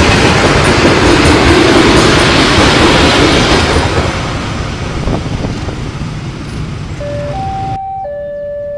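A freight train of fuel tank wagons rolls past close by, its wheels on the rails making a loud, steady rumble. The rumble dies away over a few seconds after the last wagon passes, about four seconds in. Near the end a two-tone level-crossing alarm starts, alternating between a lower and a higher tone.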